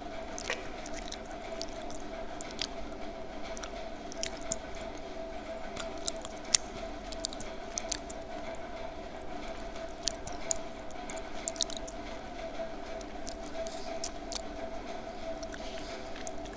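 Close-miked chewing of homemade slate-pencil lollipop pieces: scattered small crunches and crackles, the sharpest about six and a half seconds in, over a steady background hum.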